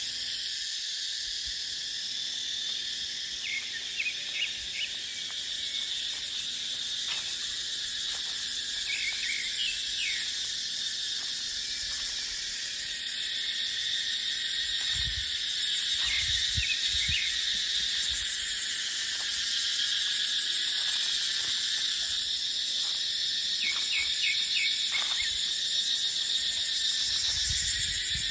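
Cicadas buzzing in a steady, dense, high chorus, with a few short clusters of chirps. Low gusts of wind rumble on the microphone a little past the middle and near the end.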